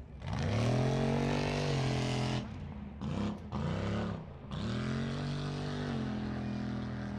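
Mud truck's engine revving hard and held at high revs, lifting off after about two seconds with a couple of quick throttle blips, then revving up and held again.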